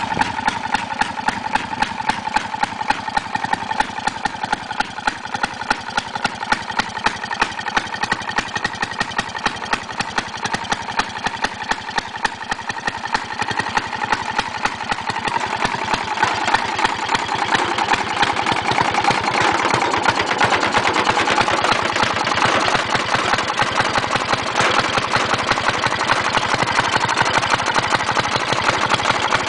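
A Fairmont engine on a garden tractor running steadily, with an even train of firing beats. It grows louder about halfway through.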